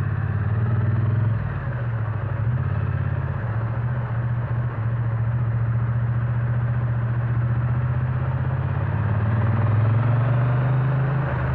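Triumph Bonneville T100's 900 cc parallel-twin engine running under way with its exhaust note. The note dips briefly about a second and a half in and again around three and a half seconds in, then builds toward the end, over a steady rush of wind.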